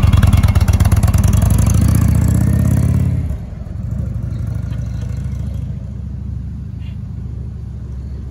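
Indian motorcycle engine running loudly, then suddenly dropping to a quieter, steady running about three seconds in.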